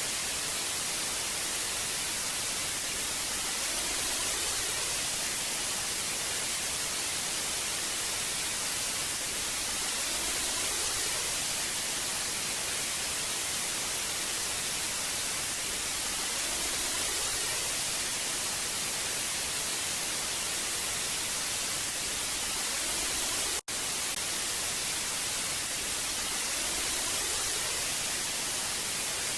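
Hiss of old analog TV static, a steady, bright rush of noise, with faint slow swells underneath. It cuts out for an instant near the end.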